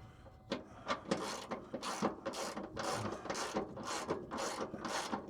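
Ratchet wrench loosening a bolt on a van's fuel tank strap: a steady run of short rasping clicks, about three strokes a second, as the handle is swung back and forth.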